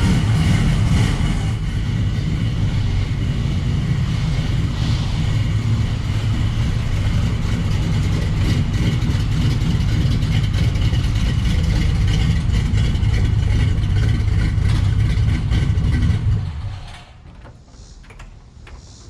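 Chevrolet 3100 pickup's engine, fed by a Holley Sniper EFI, running steadily after a cold start. It stops near the end, leaving a few faint clicks.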